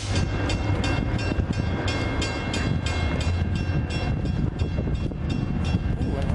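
Diesel freight locomotives approaching with a steady low engine rumble, while a bell rings evenly at about three strikes a second.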